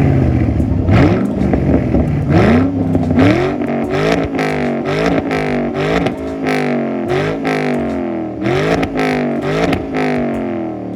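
Ford Mustang engine through a new MBRP axle-back exhaust, revved again and again in quick blips, its pitch climbing and dropping about twice a second in the second half.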